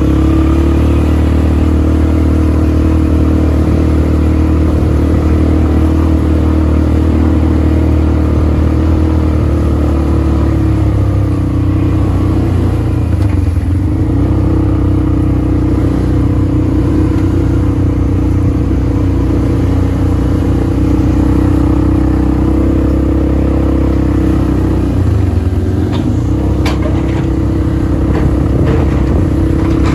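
An ATV engine runs steadily under way, its note shifting a few times with the throttle. A few sharp knocks or rattles come near the end.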